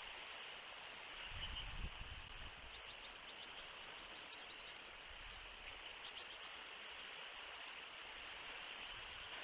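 Outdoor nest-cam ambience: a steady hiss, with wind rumbling on the microphone about a second or two in. Faint high chirps of small birds come a couple of times.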